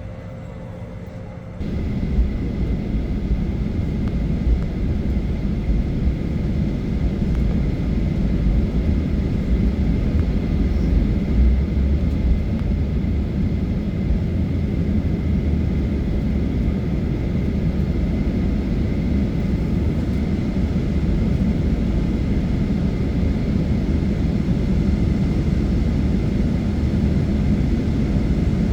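Cabin noise of a Boeing 737-800 on its takeoff roll: the CFM56-7B engines come up to takeoff power with a sudden jump in level about two seconds in, then a loud, steady roar with a deep rumble and a thin high fan tone that swells slowly as the jet speeds up.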